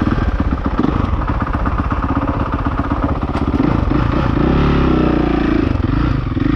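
Honda CRF450R single-cylinder four-stroke dirt bike engine running, with the revs rising and falling about four to five seconds in.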